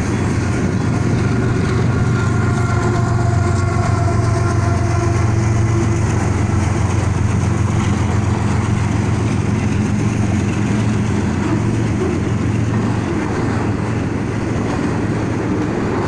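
Freight train of covered hopper and autorack cars rolling past close by: a steady low rumble of steel wheels on rail, with a faint thin whine over it for the first several seconds.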